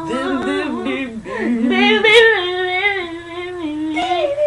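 Drawn-out, wavering wails in a high voice, with two voices overlapping in places.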